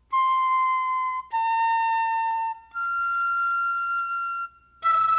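Flute playing solo: three long held notes, the third higher and longest, then a short sharp note near the end.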